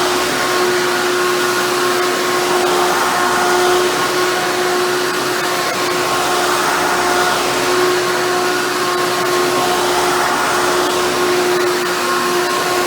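Hoover bagless twin-chamber upright vacuum cleaner running steadily, a constant motor hum over the rush of air.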